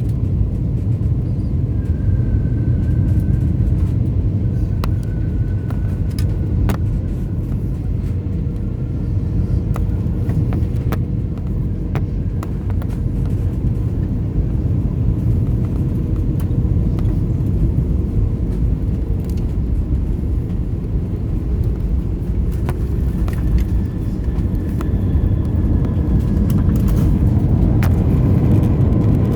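Steady low rumble of engine and airflow noise inside an Airbus A321's passenger cabin on a gusty landing approach, with scattered sharp clicks and rattles. It grows louder near the end.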